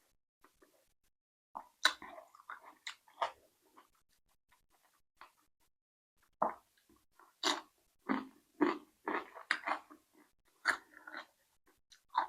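A person chewing food close to the microphone: mouth clicks and smacks in two spells, a short one about two seconds in and a longer one from about six seconds to near the end.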